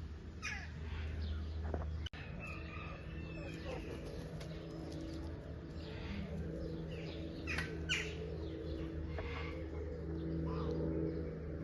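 Birds calling, with many short, sharp chirps and calls scattered throughout over a steady low hum.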